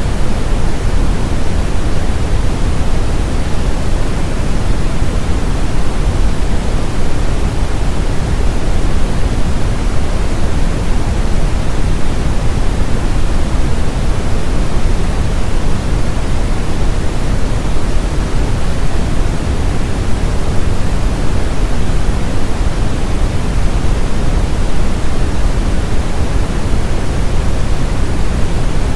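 Brown noise: a steady, loud, even rush of noise weighted toward the deep low end, unchanging throughout, used for masking tinnitus.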